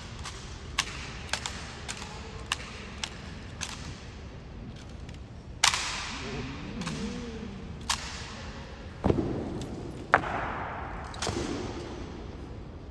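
Rifle drill by an honor guard: a run of light, quick slaps and clicks from hands and rifles, then five louder, sharper cracks of rifles being slapped, caught or struck down, each echoing briefly.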